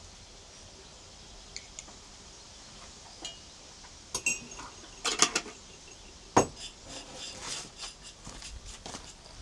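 Scattered light clinks and knocks of kitchenware being handled, with one sharper knock about six seconds in.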